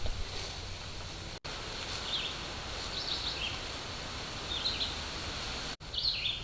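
Forest ambience through a trail camera's microphone: a steady hiss with a low rumble, and about five short, high bird chirps scattered through. The sound cuts out for an instant twice.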